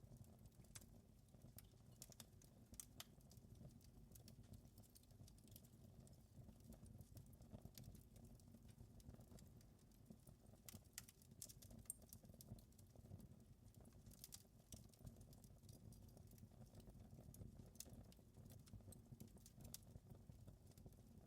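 Wood fire crackling faintly, with irregular pops and snaps over a low, steady rumble.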